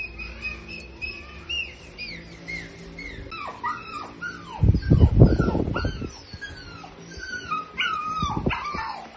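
Dog whimpering and yipping: a run of short, high, falling whines, with a louder, deeper outburst about five seconds in.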